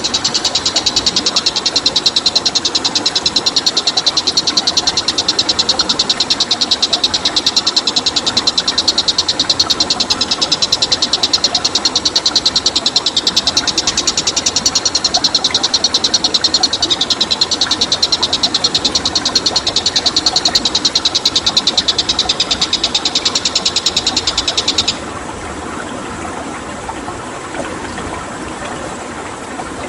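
A loud, fast, even high-pitched pulsing trill from a wild animal, held without a break, that cuts off suddenly about 25 seconds in. After the cut, a stream's running water.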